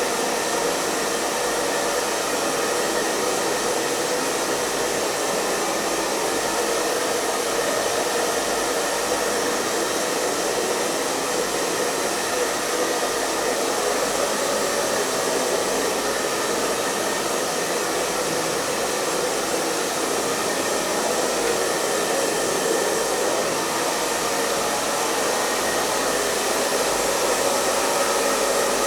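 Hair dryer running steadily: a constant airy whoosh of blown air with the hum of its motor and fan, no change in speed or pitch.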